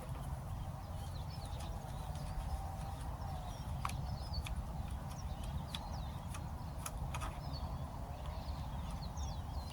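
Scattered light clicks from the parts of an Abu 6500 C3 baitcasting reel being handled while its bearings are oiled, with birds chirping in the background over a low steady rumble.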